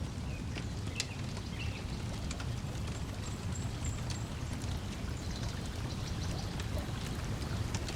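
Wood fire crackling with scattered sharp pops over a steady wash of lake water lapping at the shore. A few faint bird chirps sound in between.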